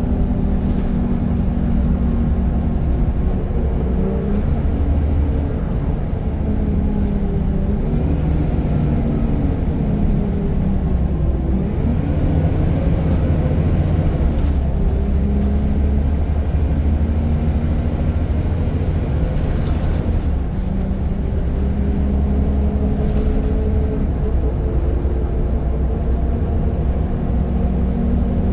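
Scania N94 bus engine running under load, its pitch sagging and climbing again several times as the bus changes gear and pulls away. A few sharp clicks sound over it around the middle.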